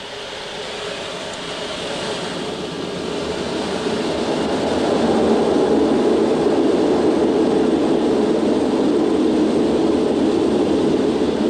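Concorde's four Olympus 593 jet engines run up to full takeoff power, heard from inside the flight deck as the takeoff roll begins. The engine noise builds steadily over about five seconds and then holds loud and even.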